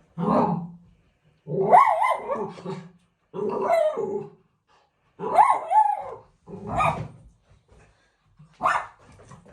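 A dog barking repeatedly, six drawn-out barks that bend in pitch, with short silences between them.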